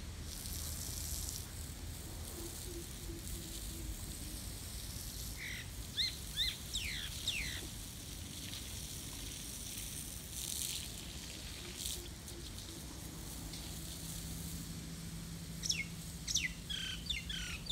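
Bird calls: a quick run of short, falling chirps about six seconds in and another near the end, over a steady outdoor hiss.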